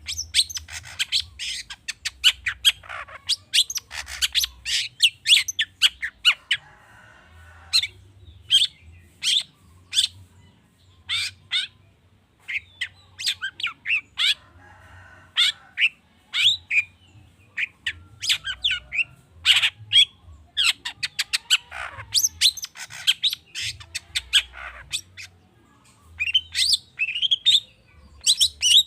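Long-tailed shrike (cendet) singing a fast, varied song of sharp high chirps and squawks, broken twice by a harsh buzzy chatter, packed with calls mimicked from other birds.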